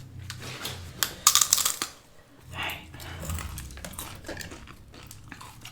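Close-miked crunching and chewing of a crisp tortilla chip, a run of sharp crackles, loudest just over a second in.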